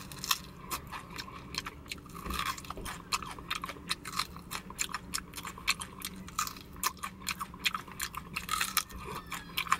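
Close-up crunching and chewing of crispy fried chicken skin, many short irregular crunches and wet mouth sounds as meat is bitten and gnawed off the bone.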